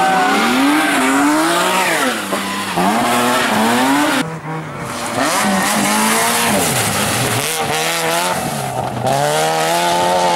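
Rally car engine revving hard and shifting through the gears, its pitch climbing and falling again and again, with a sharp lift-off about four seconds in.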